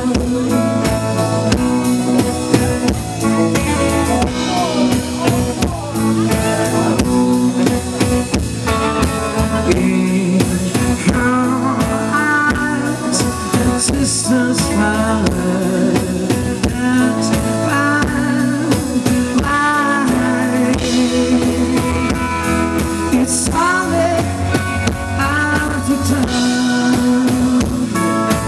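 Live rock cover band playing: drum kit, bass and electric guitar in a blues-rock groove, with bending guitar lines.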